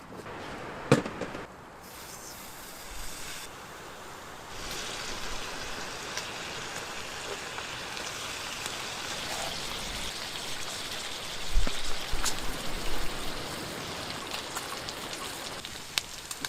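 Bacon frying in a pan over the campfire: a steady sizzle with scattered pops and crackles that thickens a few seconds in, and a few sharp knocks along the way.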